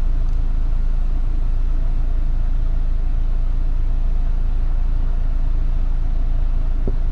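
Steady low rumble of a vehicle engine idling, unchanging throughout.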